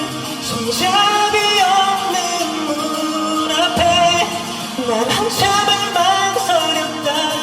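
Live pop song: a male singer's voice carrying a melody over band accompaniment.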